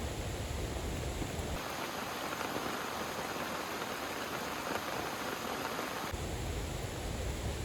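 Heavy rain falling in a steady hiss. About a second and a half in, the deep low noise under it drops away and the hiss turns brighter; the deep noise comes back suddenly about six seconds in.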